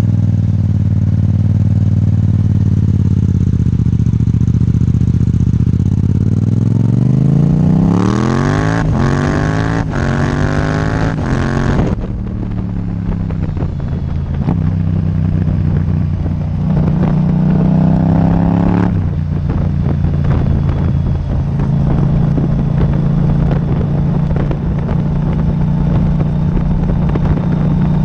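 Yamaha MT-07's parallel-twin engine through an Akrapovic titanium exhaust, ridden on the road. It runs steady, then revs up hard for several seconds, drops off sudden at a shift, revs up again more briefly, and then settles to a steady cruise.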